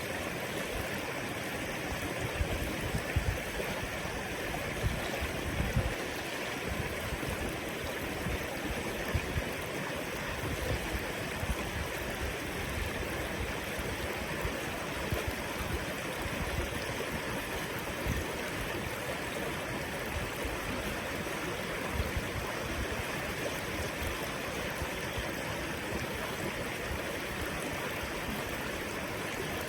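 River water flowing, a steady rushing hiss, with a few short low bumps in the first several seconds.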